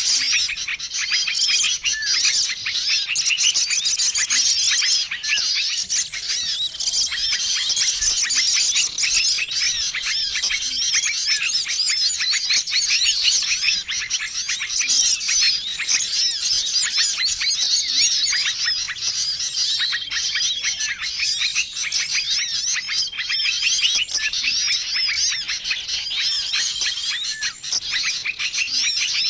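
Dense, noisy chorus of many small songbirds chirping and twittering all at once, with a short flat whistle note recurring every few seconds. It is a mixed small-bird lure recording used to call wild birds in.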